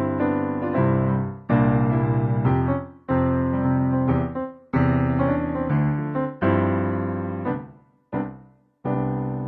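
Solo piano background music: chords struck one after another and left to ring and die away, with a short gap about eight seconds in.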